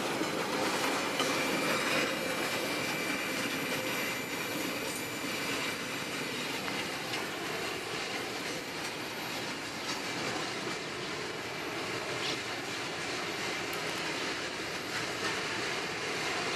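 Freight train of hopper wagons rolling past, steel wheels rattling over the rails with a thin wheel squeal in the first few seconds. The sound eases slightly as the last wagons go by.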